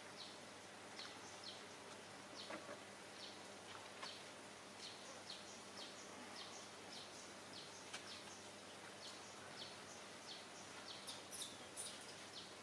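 Birds chirping faintly over a steady background hiss: short, high chirps about twice a second, a few louder ones clustered near the end.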